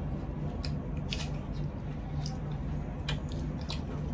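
Quiet eating sounds: soft, wet mouth noises of chewing with a few short, light clicks scattered through, over a steady low hum.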